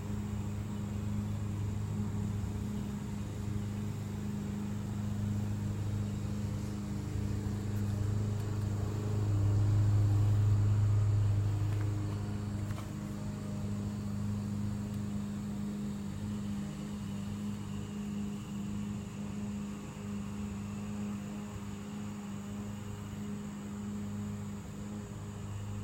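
A steady low hum with a faint high whine above it, swelling louder for a couple of seconds about ten seconds in.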